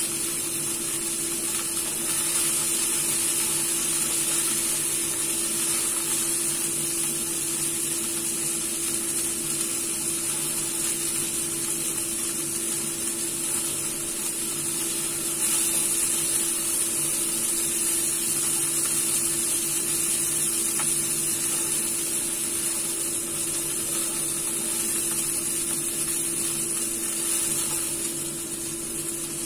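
Chicken wings frying in hot oil in a pan, a steady sizzle, with a constant low hum underneath.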